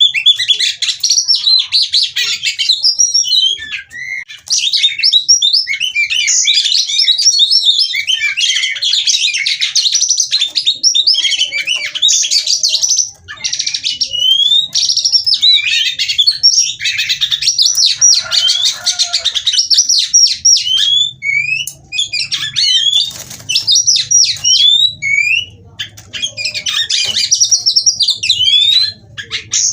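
Female oriental magpie-robin singing a loud, rapid, varied song of chattering notes and rising whistled slurs. The song breaks off briefly a few times.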